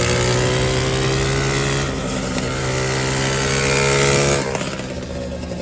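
Riding lawn mower's small engine running hard at a steady pitch, then easing off and getting quieter about four and a half seconds in.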